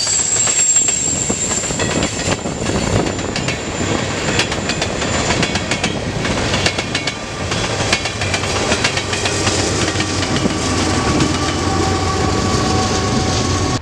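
Freight cars of a Norfolk Southern manifest train rolling past, wheels clacking over the rail joints. A thin high wheel squeal sounds in the first few seconds, and lower squeal tones come in during the second half.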